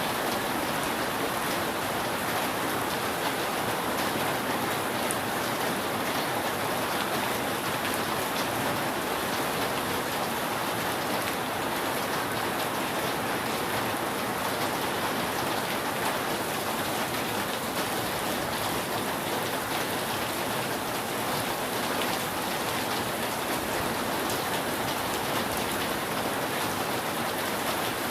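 Steady rain falling on a roof: an even hiss with faint scattered drop ticks.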